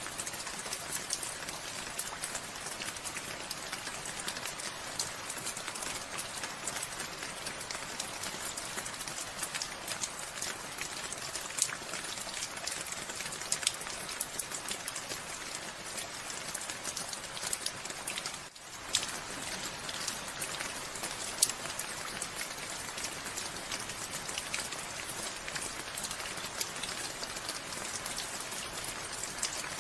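Steady rain falling, with many individual drops striking a surface close by as sharp ticks over the even hiss. The sound dips out for a moment a little past halfway.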